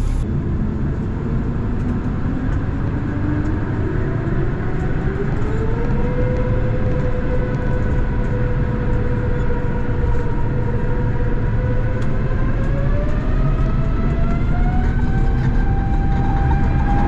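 A vehicle accelerating: a whine climbs in pitch over a steady low rumble, levels off for several seconds, then climbs again near the end.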